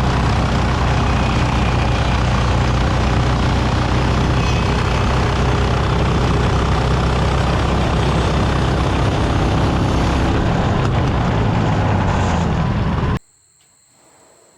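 Woodland Mills HM130MAX portable bandsaw mill running at full throttle, its engine driving the blade through a log as it saws a timber beam. The steady engine noise cuts off suddenly about 13 seconds in.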